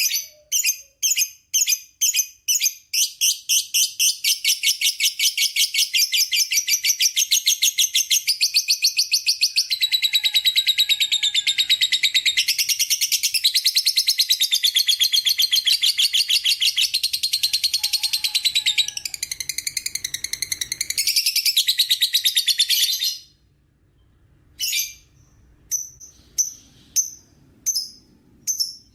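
Lovebird's long 'ngekek' chatter: separate high chirps quicken into one rapid, unbroken trill lasting about twenty seconds, which stops abruptly, followed by a few scattered chirps near the end.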